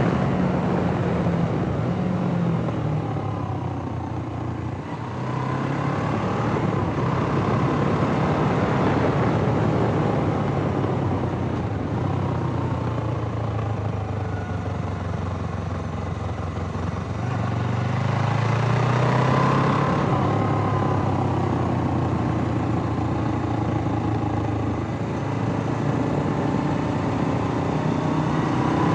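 Suzuki GS500E's air-cooled parallel-twin engine running, its pitch rising and falling several times as the revs change, with a brief drop in level about five seconds in.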